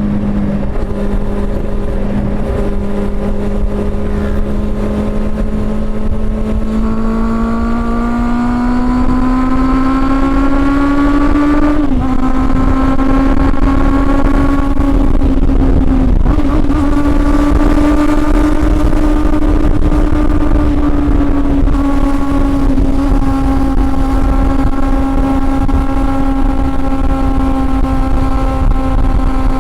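Honda CB400 Super Four's inline-four engine on the move: running at steady revs, then rising for about five seconds before the revs drop sharply as it changes gear. After a short dip a few seconds later, it cruises at fairly steady revs over a constant low rush of noise.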